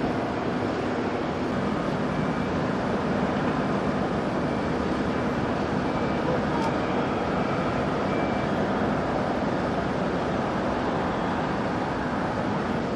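A steady mechanical drone with a faint hum in it, and voices in the background.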